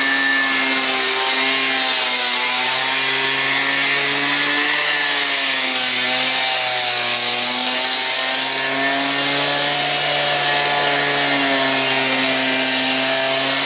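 Engine-driven concrete saw cutting through a concrete kerb and footpath, running steadily under load. Its engine note rises and falls slightly, with a hiss from the cut.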